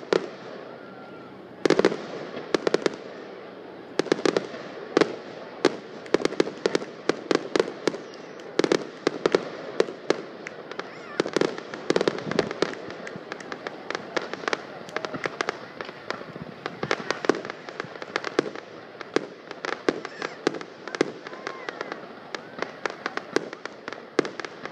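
Aerial fireworks going off in a rapid barrage of sharp bangs and crackling, several a second, with a short lull about a second in.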